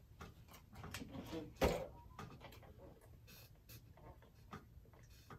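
Faint wet clicks and smacks of chewing and mouth sounds picked up close on a clip-on microphone, with one louder smack about one and a half seconds in, then sips through a drinking straw later on.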